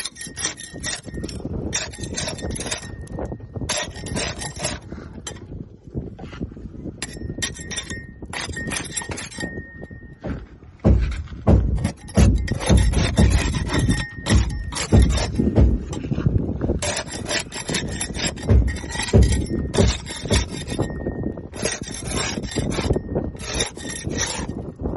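Barnacles being scraped off a boat hull: repeated rough scraping strokes with short pauses between them, growing heavier and louder about halfway through.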